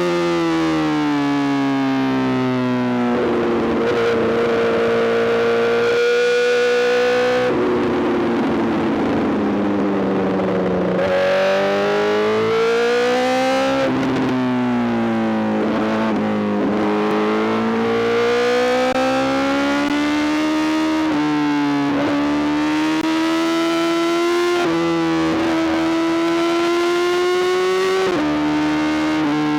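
Honda CBR1000RR-R SP's inline-four engine through an Arrow GP full exhaust, ridden at high revs. Its note rises and falls smoothly, with several sudden jumps in pitch at gear changes.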